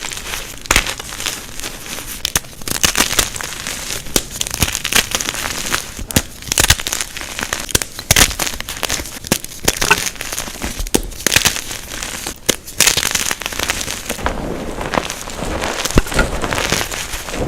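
Blocks of unpolished gym chalk being crushed, giving a dense, irregular run of sharp crunches and crackles over a soft powdery rustle.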